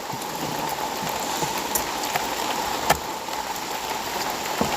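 Rain falling steadily as an even hiss, with a few sharper drop hits.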